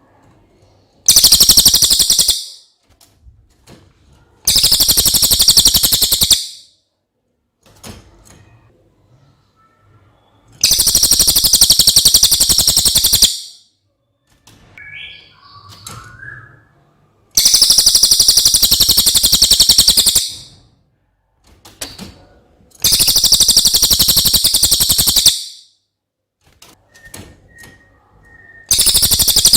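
Yellow-throated hanging parrot (cililin) giving a series of loud, very high-pitched, rapidly pulsed trills. Each lasts one to three seconds, with pauses of a few seconds between them, six in all.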